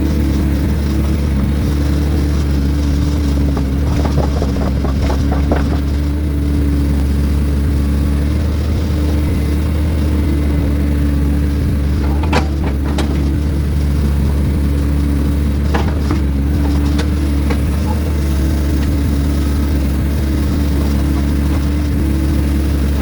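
Heavy diesel engine of the logging equipment running steadily, with a few short knocks and clunks now and then over it.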